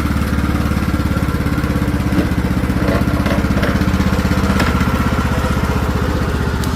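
Craftsman T1600 lawn tractor engine running steadily with an even, fast firing pulse, now running on its newly replaced carburetor.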